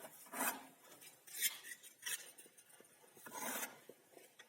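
A few short scrapes and clinks of a metal trowel working stove mortar, with a longer scrape about three and a half seconds in.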